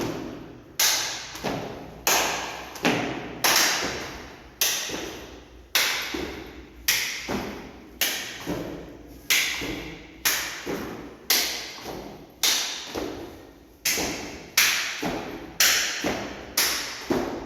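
Sharp percussive strikes, from a hand drum or clapping hands, keeping a steady beat of about one to two a second, each ringing out briefly. The beat paces the jumps: one jump on each strike.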